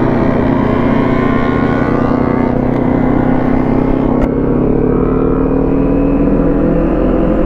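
Kawasaki Ninja 400's parallel-twin engine pulling in gear on the move, its revs rising slowly and steadily.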